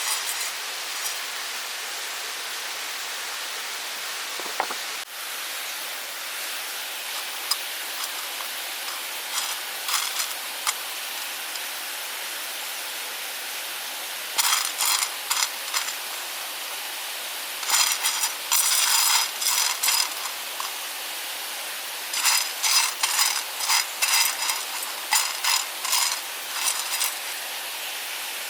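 Steady rush of a forest stream, overlaid from about halfway on by repeated clusters of rapid metallic rattling, like small hard objects shaken or stirred in a metal pan.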